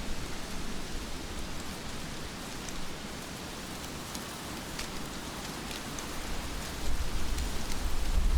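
Heavy rain falling steadily, with a few sharper single drops standing out. A low rumble swells near the end.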